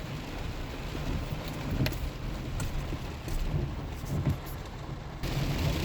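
Truck cab driving in heavy rain: a steady low road-and-engine rumble under rain hiss, with a few sharp ticks of drops hitting the truck. The high hiss thins out about five seconds in.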